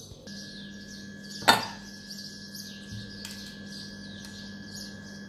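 Birds chirping in the background over a steady hum, with one sharp knock about a second and a half in.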